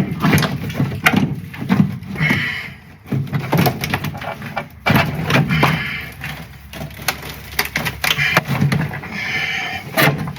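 Irregular knocks, clicks and clatter of hand tools working on the car's metal body.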